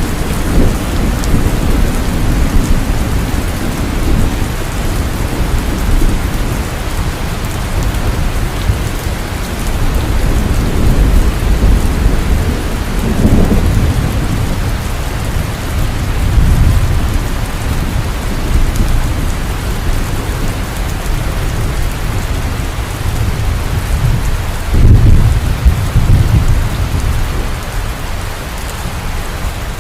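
Heavy rain falling steadily, with thunder rolling in low rumbles through it. The strongest clap of thunder swells up about five seconds before the end.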